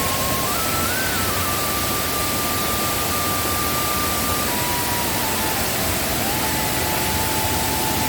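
Steady rush of Mae Kampong waterfall in rainy-season high flow, an even, unbroken roar of water. A faint thin tone wavers slowly up and down in pitch above it.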